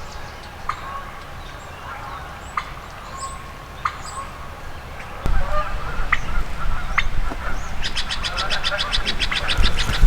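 Hen wild turkey calling: sharp single clucks spread over several seconds, then a fast, evenly spaced run of cutting notes. A low rumble starts about five seconds in.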